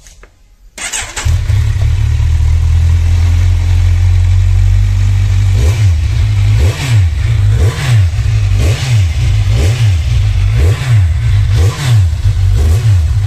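Kawasaki Ninja 1000's inline-four engine starting about a second in and idling, then revved with about seven throttle blips, each a rise and fall in pitch about a second apart.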